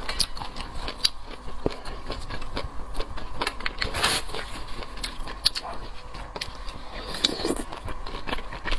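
Close-miked eating sounds: a person chewing food, with many small wet mouth clicks and crackles and a louder burst about four seconds in.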